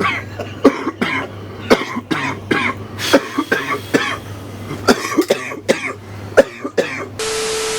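A man in a fit of repeated coughing, gasping laughter, in short bursts one after another. Near the end a steady electronic beep with hiss cuts in.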